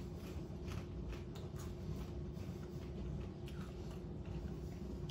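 Faint irregular crunching clicks of candy-coated peppermint popcorn being chewed with the mouth closed, over a steady low hum.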